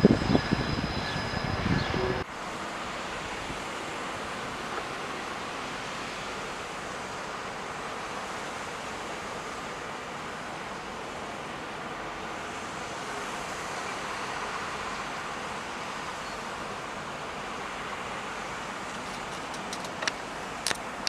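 A loud, low rumble with steady high-pitched whines from a passing vehicle, cut off abruptly about two seconds in. Then a steady, even hiss of distant traffic and wind, with a few faint clicks near the end.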